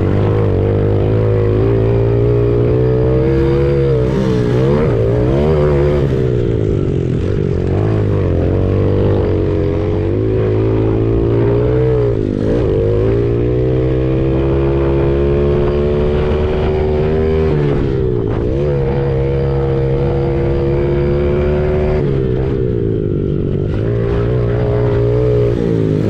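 Honda CRF70 pit bike's single-cylinder four-stroke engine under race throttle, revving up and down repeatedly as the rider works the throttle. The pitch holds high for a few seconds in the middle and drops sharply just before the last third.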